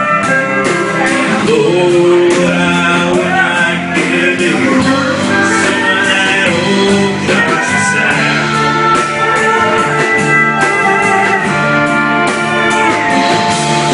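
Live country band playing an instrumental break between verses: guitars over bass and drums.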